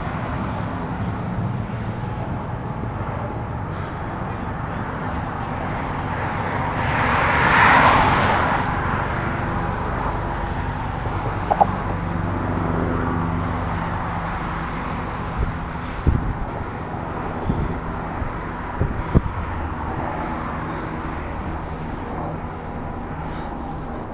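Road traffic passing on the highway bridge: steady tyre and engine noise, with one vehicle swelling past loudly about eight seconds in. A few sharp knocks come in the second half.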